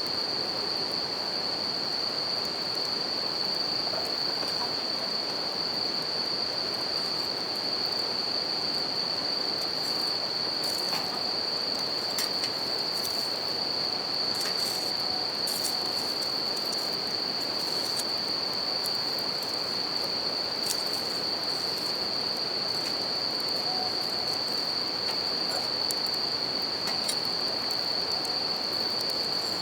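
Bell crickets (suzumushi) singing a steady, high, unbroken trill over the continuous rush of a river, with scattered small crackles and pops from a wood campfire.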